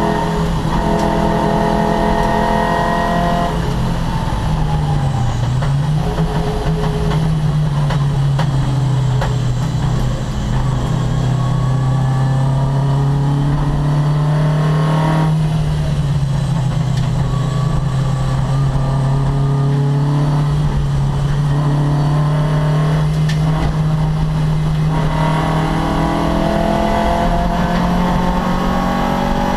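Opel Kadett C race car's engine running hard at high revs, its pitch dipping sharply about five seconds in, dropping again midway and climbing steadily near the end as the car lifts, shifts and accelerates.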